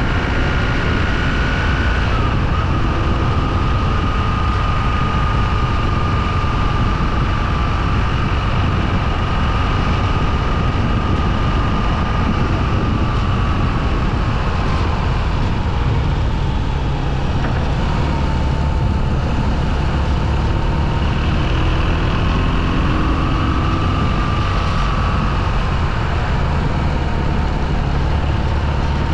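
Motorcycle running on the move, its pitch drifting slowly up and down with speed, under a steady low rumble.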